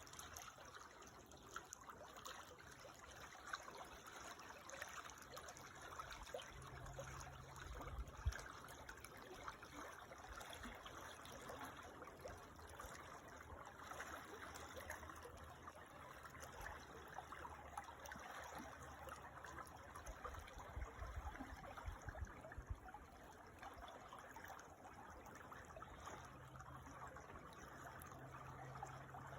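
A creek's water trickling steadily and softly, with a faint low rumble that comes and goes underneath.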